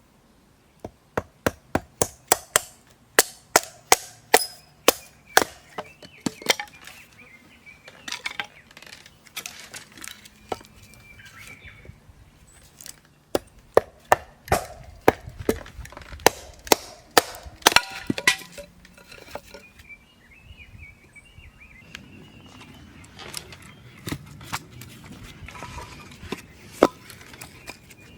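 Rapid chopping strokes on wood, about three a second, in two quick runs with slower single strikes between and after.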